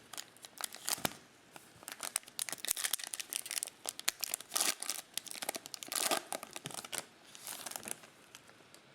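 Plastic trading-card pack wrapper crinkling and tearing as a pack is ripped open, a dense run of irregular crackles.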